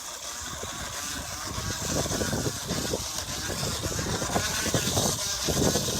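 Plastic water bottle against a bicycle wheel's spokes, slapping each spoke in a fast buzzing rattle as the bike rolls, a homemade imitation of a motorcycle engine. It gets louder about two seconds in.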